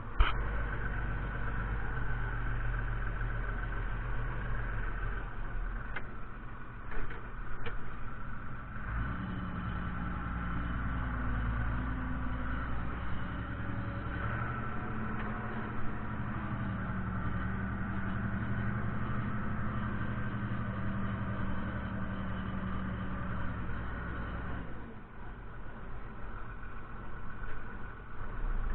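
Fiatagri 130-90 tractor's diesel engine running steadily. About nine seconds in the note grows fuller and slightly higher as it works harder, and it eases back off near the end.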